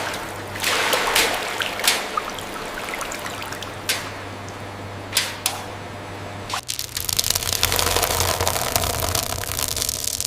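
Water-like splashing and trickling over a steady low machine hum, with several sharp clicks; about two-thirds of the way through it changes to a denser, louder rush.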